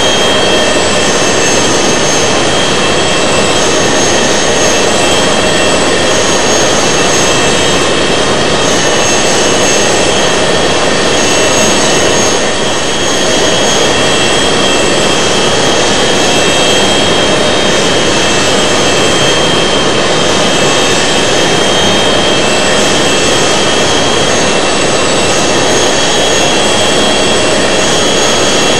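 Airbus A380 turbofan engines running steadily, heard from inside the cabin: a loud, even rush with thin high whining tones held through it.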